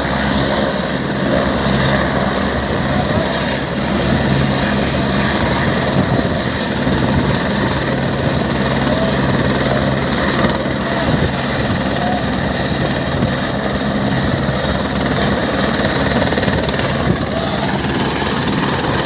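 Helicopter running loud and steady, its rotor chopping without a break.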